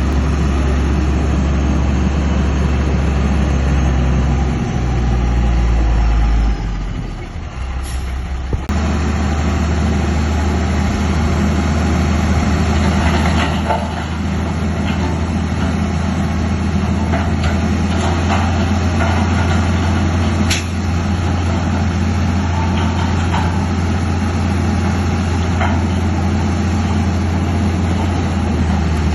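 Heavy diesel earthmoving machinery running steadily, its engine dropping off briefly about seven seconds in and then running on, with a few short clanks later.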